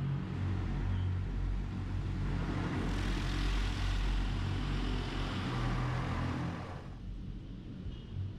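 Automatic car wash heard from inside a car: a steady low rumble under a loud rushing hiss from the wash equipment, which stops suddenly about seven seconds in.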